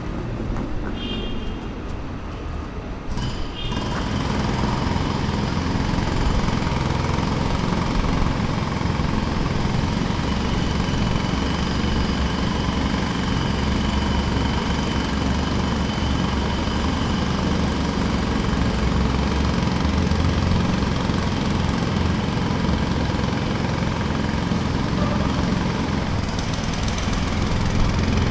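Jackhammer running steadily, louder and denser from about four seconds in after a quieter start.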